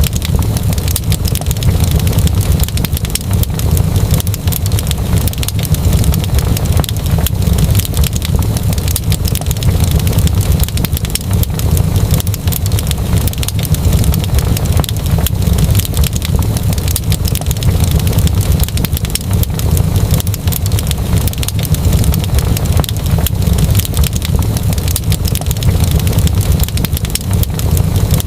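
Wood fire crackling steadily, with dense, irregular pops and snaps over a continuous low rumble.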